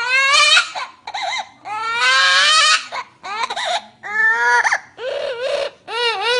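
Parrot imitating a crying baby: about seven wailing sobs, one after another with short breaks, some rising in pitch.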